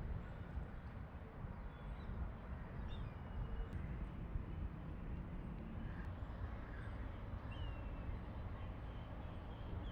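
Outdoor ambience: a steady low rumble with a few faint, short bird chirps that glide in pitch, about three seconds in, again past the middle and near the end.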